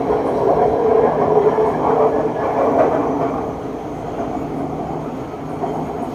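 MRT Purple Line train running along its elevated track, heard from inside the carriage: a steady rumble of wheels and motors, easing slightly about halfway through.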